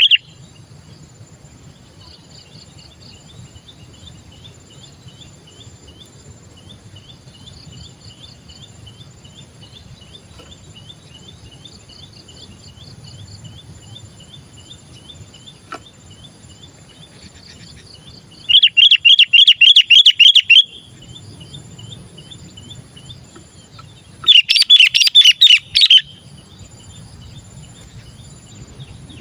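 Sooty-headed bulbul (kutilang) calling: two loud bursts of rapid, repeated chattering notes, each about two seconds long, starting about 18 seconds and 24 seconds in. Under them runs a faint, regular series of short high chirps.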